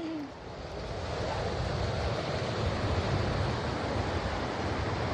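Steady wash of ocean surf mixed with wind buffeting the microphone, growing louder about a second in and then holding steady.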